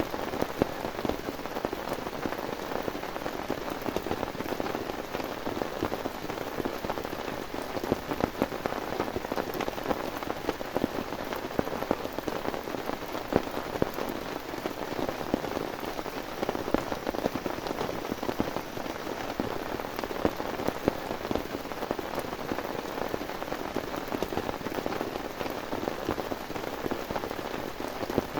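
Heavy rain falling steadily, with a dense patter of drops hitting a surface close by and many sharp individual drop hits standing out.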